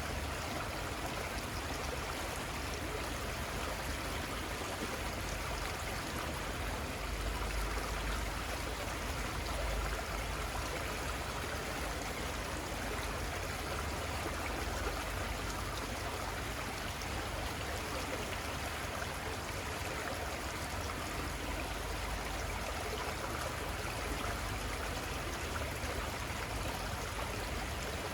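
The Little Conestoga River flowing over its bed: a steady, even rush of running water with a babbling trickle, unchanging throughout.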